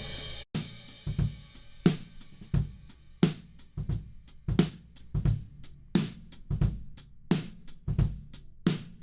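A recorded acoustic drum kit played back during mixing: kick, snare, hi-hat and cymbals in a steady groove. Playback cuts out briefly about half a second in, then starts again.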